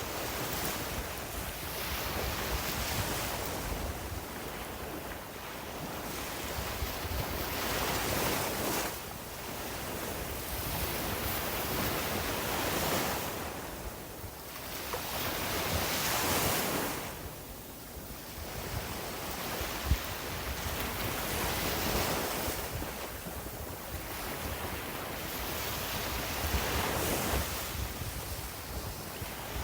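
Sea waves breaking and washing up a beach, the surf swelling and falling away every few seconds, with wind rumbling on the microphone. One short sharp tap about two-thirds of the way in.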